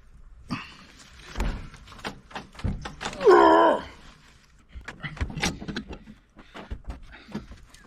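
Metal clunks and knocks from tools working on a boat's propeller-shaft stuffing box held in a vise while a tight threaded part is forced loose. A little over three seconds in comes one loud, short, strained pitched sound that wavers in pitch.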